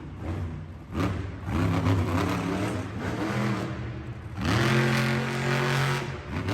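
Monster truck engine revving in short, sharp blips, then a longer rev held at high pitch for a second or two about four seconds in.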